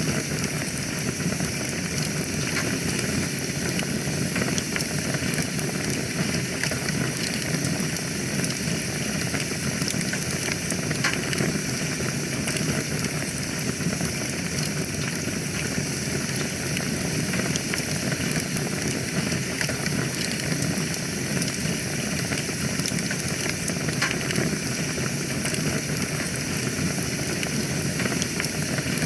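Wood fire burning steadily in a fireplace: a constant rushing hiss with small scattered crackles and pops throughout.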